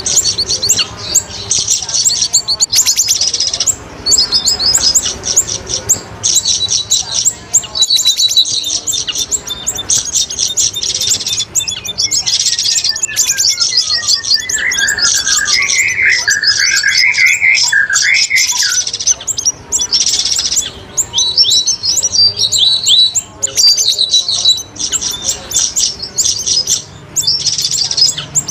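Bird-luring recording of cucak rawis and siri-siri calls. Rapid, high, repeated chirps and trills run throughout, and a lower warbling phrase that swings up and down comes about halfway through.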